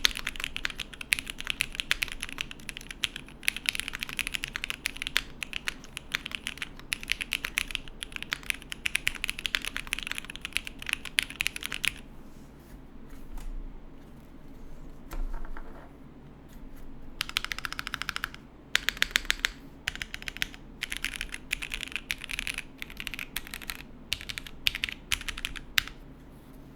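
Typing on a Matrix 8XV 3.0 mechanical keyboard fitted with lubed and filmed SP Meteor White linear switches on an unflexcut aluminium plate, gasket-mounted, with GMK keycaps. It is a fast, steady run of key clicks, with a pause of a few seconds about halfway through, and then the typing starts again.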